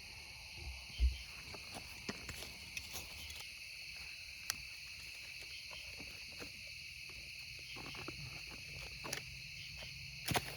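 Night insects chirping steadily in a high, even chorus, with a few faint clicks and knocks, a thump about a second in and a sharper click near the end.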